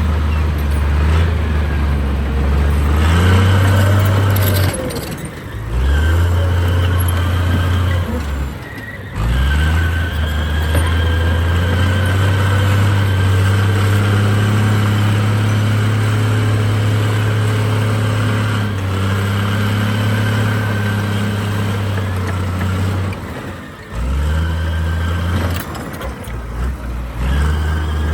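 Heavy diesel earthmoving machinery running under load with a deep, steady drone. The engine note drops off briefly three times, around five seconds in, around nine seconds in and near the end, before picking up again.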